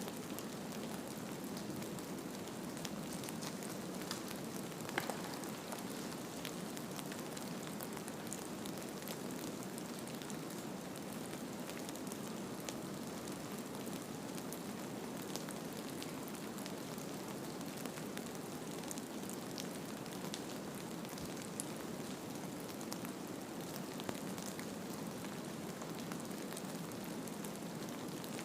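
Steady rain-like ambient hiss with faint scattered ticks and patters, the even noise bed of a snowfall ambience track.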